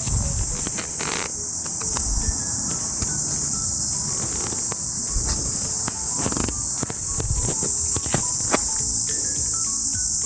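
A steady, high-pitched outdoor insect chorus, with a quiet tune of single stepping notes beneath it and a few soft bumps and low rumbles.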